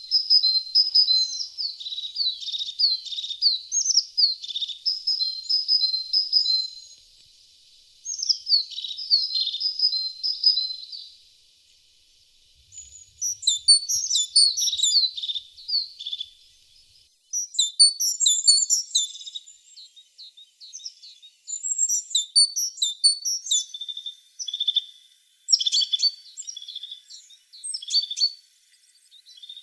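A tit singing in phrases of rapid high chirps and trills with short pauses between them; the later phrases are denser and higher.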